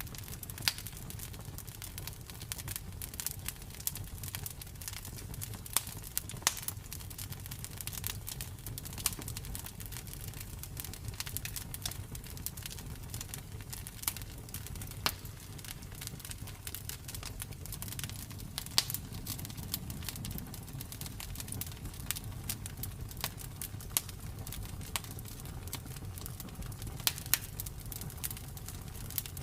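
Campfire burning, its wood crackling with irregular sharp pops and snaps, several a second, over a steady low rumble.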